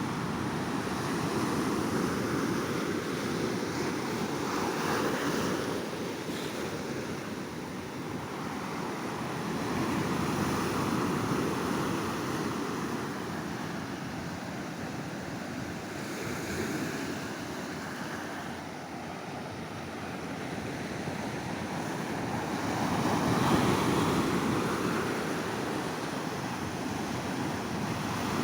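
Sea waves breaking and washing on a beach, a continuous surf that swells and eases every few seconds, with wind on the microphone.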